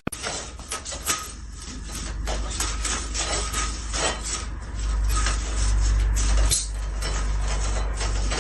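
Irregular clicks and clatter, many short knocks in quick uneven succession, over a steady low rumble.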